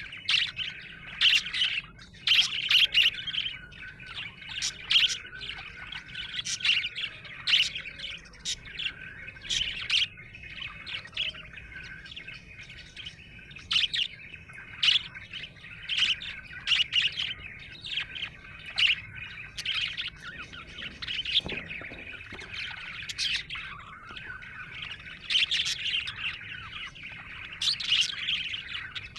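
Budgerigar chirping and warbling continuously, with many short sharp chirps over a steady chattering warble.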